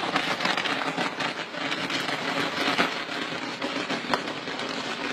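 Fireworks burning with a dense, rapid crackle, with a few sharper pops standing out, the loudest about three seconds and four seconds in.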